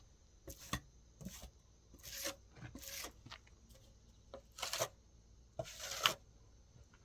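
Irregular scraping and rubbing strokes, about eight of them at uneven intervals, with a few light knocks in between.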